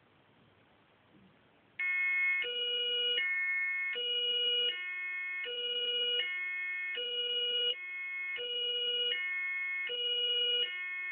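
Electronic sound module playing a German two-tone police siren (Martinshorn), high and low notes alternating about every three-quarters of a second. It starts suddenly about two seconds in, after near silence.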